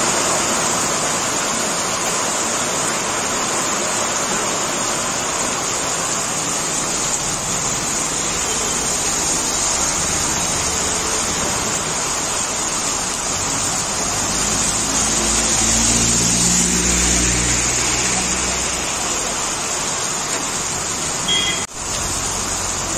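Heavy rain pouring down with a steady, even hiss. About two-thirds of the way through, a passing vehicle's engine hums low for a few seconds. The sound cuts out briefly near the end.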